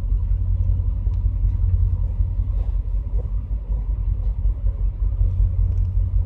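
Train running through a rail tunnel: a loud, steady low rumble.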